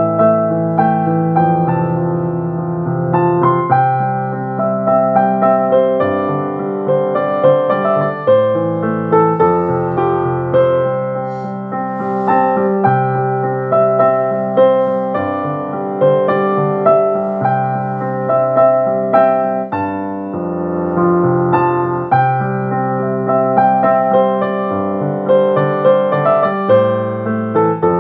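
Piano music: a gentle melody over sustained bass notes.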